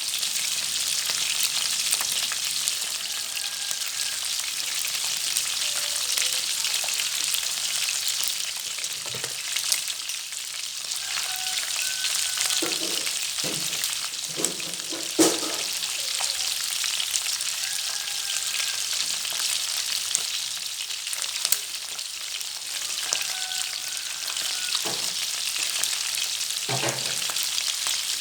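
Freshwater field fish frying in hot oil: a steady sizzling hiss, with a few short knocks now and then.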